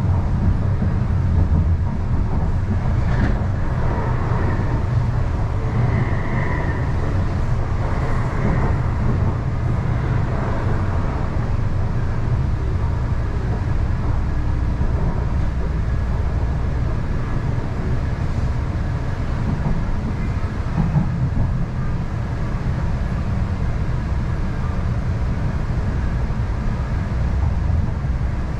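MTR East Rail Line R-Train, a Hyundai Rotem electric multiple unit, running between stations: a steady low rumble of wheels on rail and running gear, with faint wavering tones in the first few seconds.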